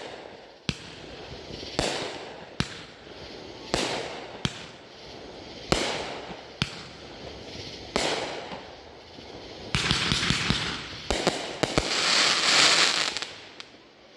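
Fireworks going off: a string of sharp bangs, roughly one a second, each trailing off, then two longer spells of dense crackling in the last few seconds.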